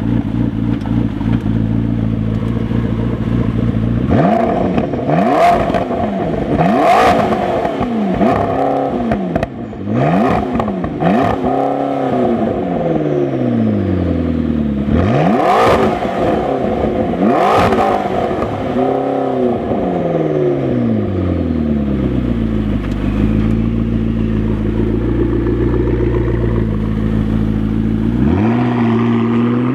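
McLaren 12C's twin-turbo V8 idling, then revved in a series of about ten quick blips, each rising and falling in pitch, with a sharp crack at the top of several. It settles back to a steady idle, then revs up once more near the end as the car pulls away.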